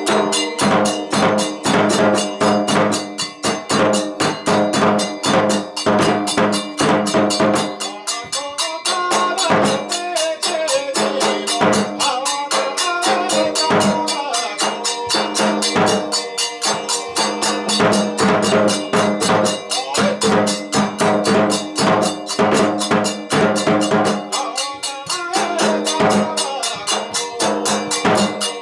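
Kagura music: fast, steady drumming with rapid, regular crisp strikes, over a sustained melodic line that bends in pitch in places.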